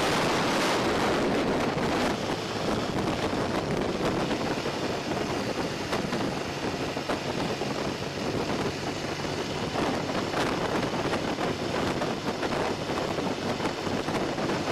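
Steady wind buffeting and road noise from a motorcycle at riding speed, a rough, even rush with no clear engine note standing out.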